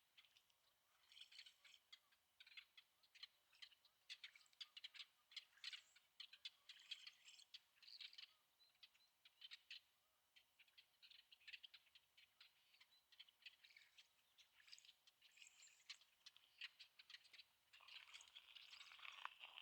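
Faint, quick, irregular chirping and clicking of small birds at dawn. Near the end, footsteps crunch on sandy gravel.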